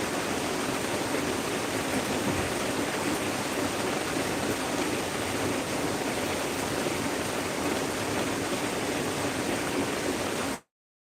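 Heavy rain falling steadily, a dense even hiss; it cuts off suddenly near the end.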